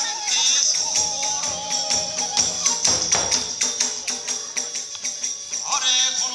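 Iwami kagura festival music. A bamboo flute melody plays over fast, continuous clashing of small hand cymbals and drum strokes.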